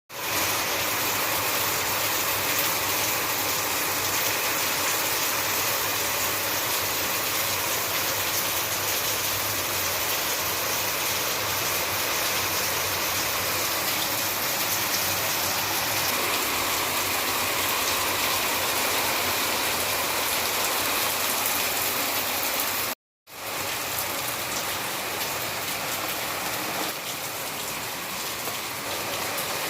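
Heavy rain falling steadily in a dense, even downpour, broken by a brief gap of silence about 23 seconds in.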